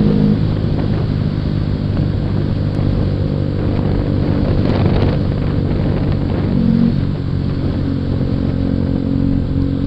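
Suzuki Shogun 125 motorcycle running at a steady cruise, heard from on board with road and wind noise. The engine note shifts slightly about seven seconds in.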